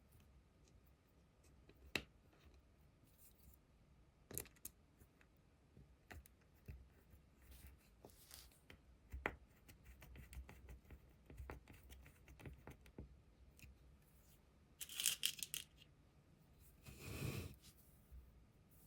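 Quiet handling of small parts and materials at a workbench: scattered light clicks and taps, then two short rustling, tearing-like bursts near the end.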